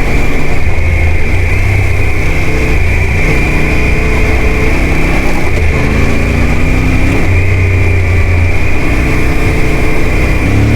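Off-road motorcycle engine running while being ridden, its pitch shifting up and down in steps, over a steady hiss.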